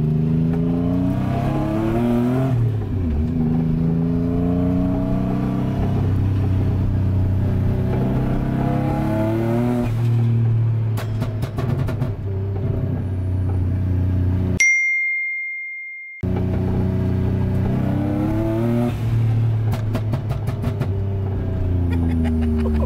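Turbocharged Nissan 350Z's 3.5-litre V6 accelerating hard, the revs climbing again and again and dropping back at each gear change, with bursts of crackling pops in between. About fifteen seconds in the engine sound cuts out for a second and a half, leaving only a single steady beep.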